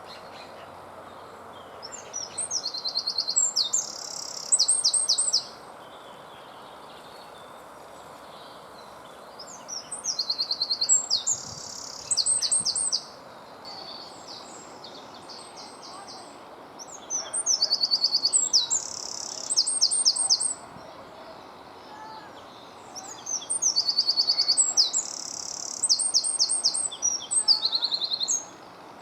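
A Eurasian wren singing: four incredibly loud, high-pitched song bouts of rapid trills and rattles, each a few seconds long, with pauses of several seconds between them.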